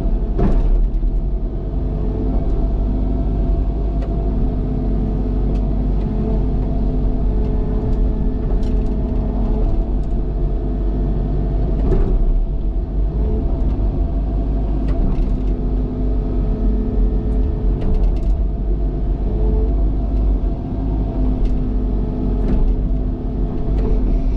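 Cat excavator's diesel engine running steadily under digging load, with a scattered handful of sharp knocks and clicks.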